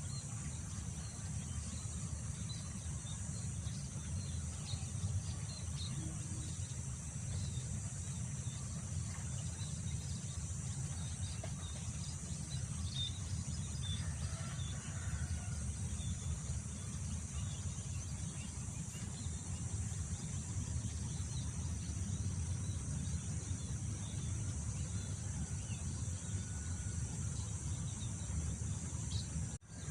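Wind blowing steadily as a low rumble, under a constant high drone of insects and scattered faint bird chirps. The sound drops out for a moment near the end.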